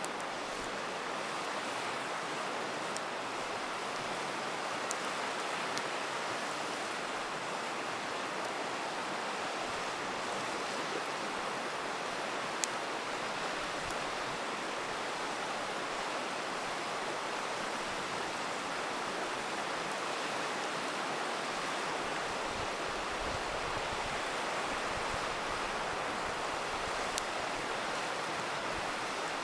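A river rushing steadily, with a handful of sharp pops from a crackling campfire, the loudest about twelve seconds in.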